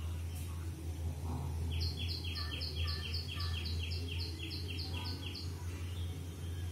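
A bird calling: a fast, even run of about fifteen short high chirps, about four a second, lasting some four seconds, over a steady low hum.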